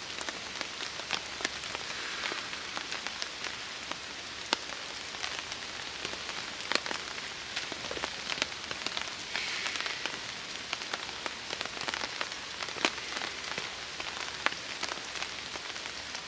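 Steady rain falling on a tarp, with many sharp drop taps scattered irregularly through an even hiss.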